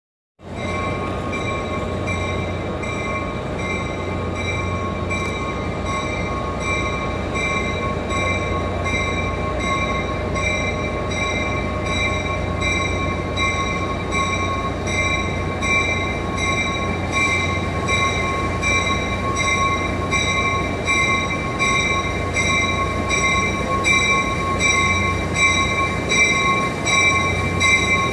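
New Jersey Transit commuter train at the platform: a steady high whine made of several held tones over a low hum, starting about half a second in and growing a little louder and more uneven near the end as the cars roll past.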